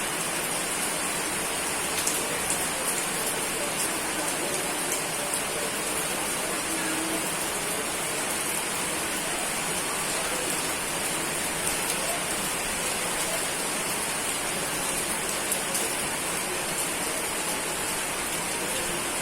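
Steady rain: an even hiss with scattered sharp ticks of drops striking nearby surfaces.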